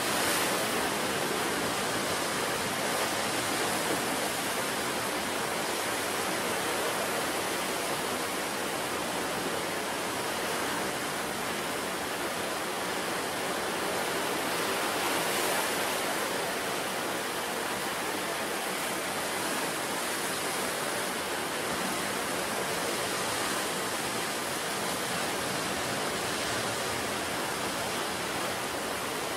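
Sea surf on a wild coast: a steady, continuous rush of breaking and washing waves, swelling a little right at the start and again about halfway through.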